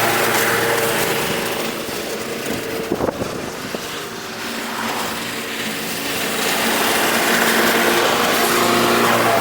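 Single-cylinder 5.5 hp Briggs & Stratton engine on a Bolens walk-behind lawn mower running steadily. It gets quieter in the middle, with a few sharp knocks about three seconds in, then comes back up to full level.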